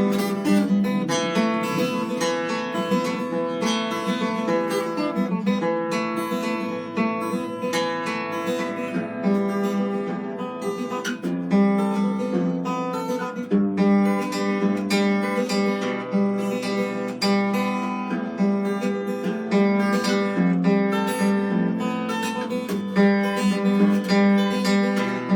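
Acoustic guitar played continuously, strummed and picked chords with a moving bass line.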